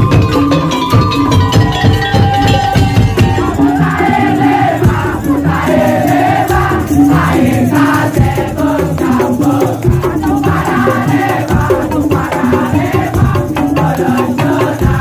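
Madurese tong-tong (ul-daul) percussion ensemble playing loudly: wooden slit drums, drums and rattles keep a steady, dense rhythm. A wavering melody line joins about four seconds in.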